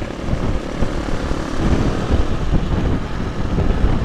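Supermoto motorcycle engine running while riding, heard from a helmet camera; the engine note rises and falls briefly about halfway through.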